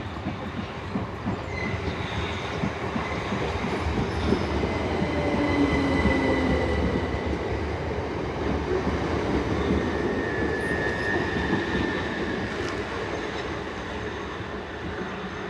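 Class 377 Electrostar electric multiple unit arriving, its wheels rumbling on the rails, louder to a peak about six seconds in and then slowly fading. Thin high-pitched squeals ride over the rumble.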